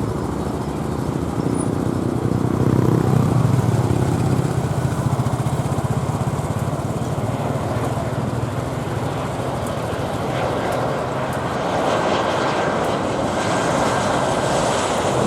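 Continuous vehicle or engine noise, low and steady at first, with a broader hiss building over the last few seconds.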